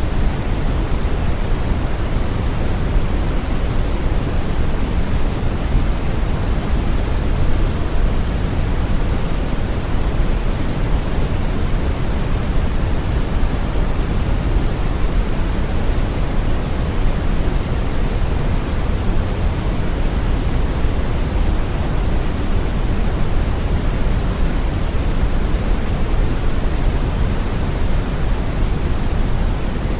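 Steady brown noise: a deep, even rushing hiss weighted toward the bass, with no changes or events.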